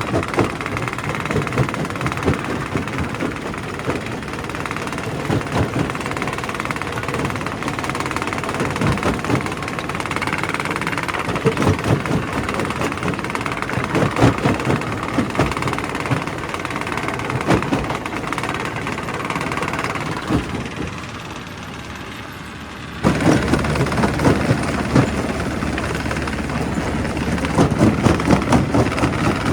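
Quarry primary rock crusher breaking stone: a dense run of cracks and knocks from rock being crushed over the machine's steady running. The sound drops quieter for a couple of seconds, then comes back suddenly about 23 seconds in.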